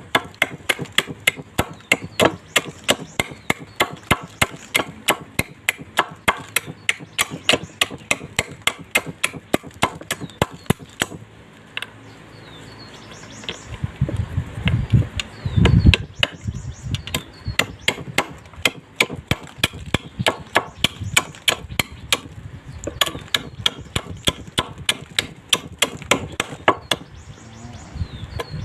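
A blade chopping empty plastic lighter casings into small pieces, with sharp strikes repeated about three times a second and a brief pause partway through.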